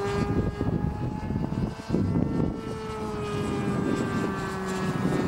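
Irvine 53 two-stroke nitro engine of a radio-controlled model plane in flight. It drones steadily at a high pitch, and the pitch slides slowly down over the second half.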